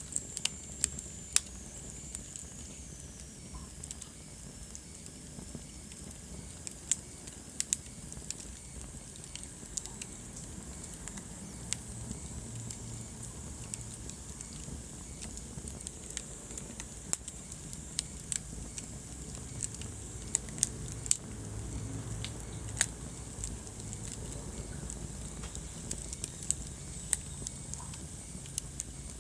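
Wood fire burning in a fireplace: irregular sharp crackles and pops over a low steady rumble of flames. A faint high whistle slides down in pitch in the first few seconds.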